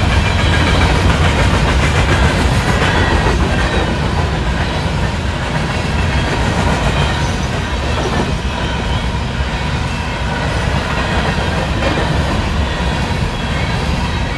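Freight train of UCEX coal cars rolling steadily past: a continuous low rumble, with the clickety-clack of steel wheels over rail joints.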